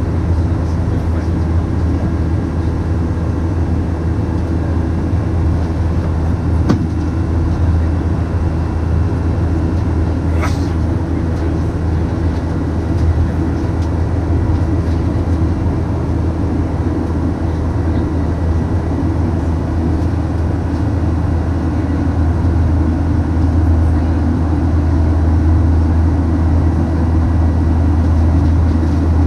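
Steady cabin drone of a Boeing 737-900 in flight, heard from inside the cabin, from its CFM56-7B engines and the airflow over the fuselage. A brief high chirp comes about ten seconds in, and the drone grows a little louder in the last few seconds.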